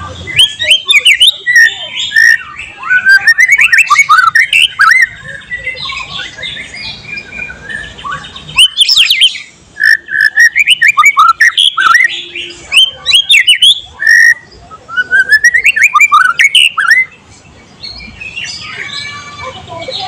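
White-rumped shama singing a loud, varied song of fast whistled notes and sharp clicking notes. It comes in three long bursts, with short pauses after about five seconds and again near the end.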